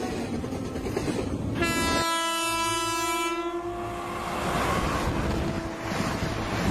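Locomotive air horn sounding one long blast, starting about a second and a half in and fading away near the end, over the steady rumble of a moving train.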